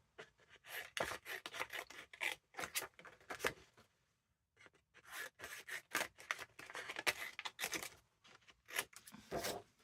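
Craft paper being handled and cut: a run of short, crisp, irregular strokes, with a brief pause about four seconds in.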